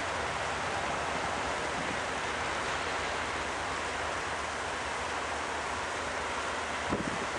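Steady rolling rumble and wheel-on-rail noise of a long double-stack container freight train passing at a distance. A brief gust of wind hits the microphone near the end.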